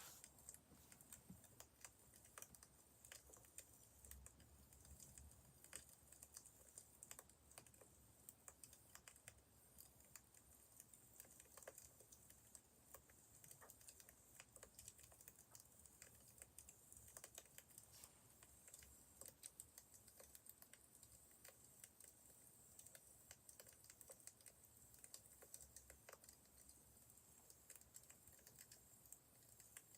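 Wood fire crackling faintly, with small irregular pops and snaps.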